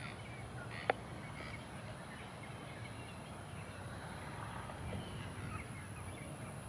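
Quiet outdoor ambience with faint, scattered bird calls and a steady high-pitched hiss; a single sharp click about a second in.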